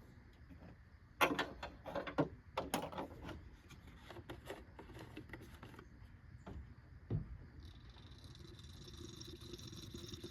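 Plastic oil jug and funnel handled with a string of clicks and knocks and a thump about seven seconds in, then motor oil pouring steadily into the funnel near the end, topping up an engine that still reads a little short on the dipstick.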